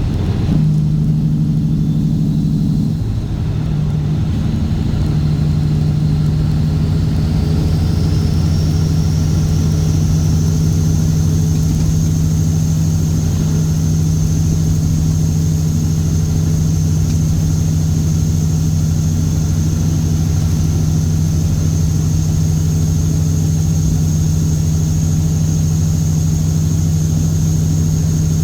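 Straight-piped Caterpillar C15 Acert inline-six diesel in a Kenworth W900 running steadily under way. There is a brief dip and change in engine note about three seconds in. A faint high whine rises over several seconds and then holds steady.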